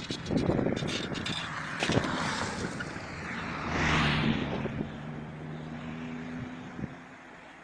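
A motor vehicle passing by, its engine and noise swelling to a peak about four seconds in and then fading away.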